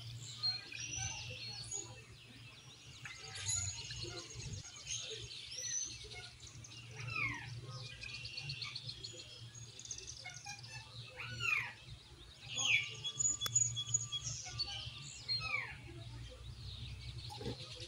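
Several birds chirping and calling, with short trills and repeated whistled calls that fall steeply in pitch, over a low steady hum.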